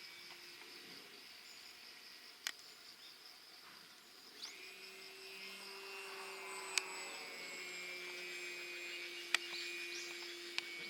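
Radio-controlled model airplane's motor and propeller whining at a steady pitch, starting about four and a half seconds in with a short upward sweep. A few sharp clicks are heard.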